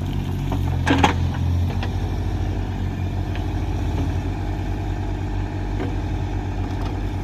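Excavator's diesel engine running steadily, with a single metallic clank about a second in.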